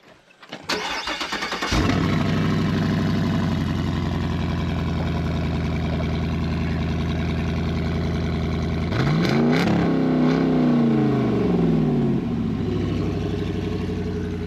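GM Gen 5 LT1 6.2-litre V8 with headers and an unrestricted intake being started: the starter cranks for about a second before the engine catches and settles into a steady idle. About nine seconds in it is revved once, the pitch rising and falling over about three seconds, then it drops back to idle.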